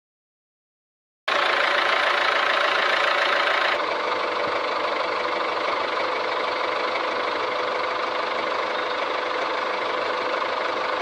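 Silence for just over a second, then a small motor running steadily with a rough, whirring mechanical noise and a steady hum. It gets a little quieter at about four seconds.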